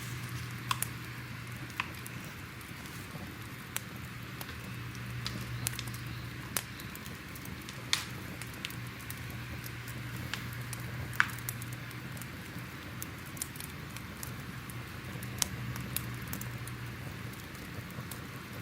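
Fire crackling: a steady low hiss with sharp, irregular pops and snaps scattered through it, over a faint low hum.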